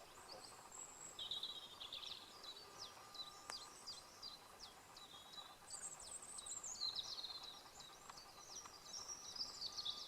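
Small songbirds singing steadily and faintly, a run of high-pitched chirps, quick falling notes and warbled phrases.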